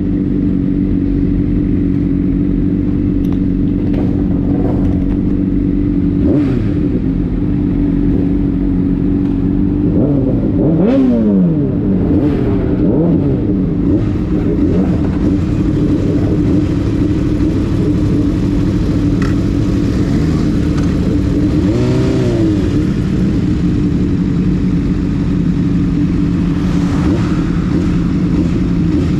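Motorcycle engine running at a steady idle, with a few brief rises and falls in pitch, about ten seconds in, again a little past twenty seconds, and near the end.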